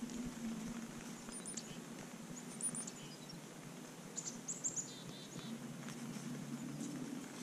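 A few faint, short, high bird chirps, including a quick falling series near the middle, over a steady low hum.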